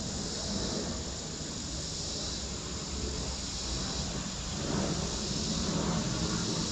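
Outdoor ambience: a steady high insect chorus over a low rumble of wind on the microphone, with no shot fired.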